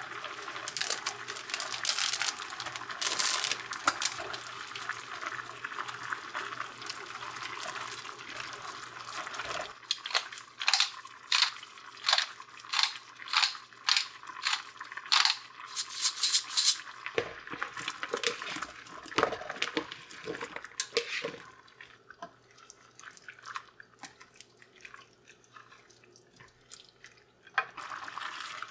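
Water running from a tap into a sink, then a run of sharp splashes and knocks about two a second, a quieter spell, and the water running again near the end.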